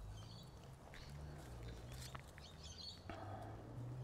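Faint birds chirping in short curling calls, with a few soft clicks and a low steady hum underneath.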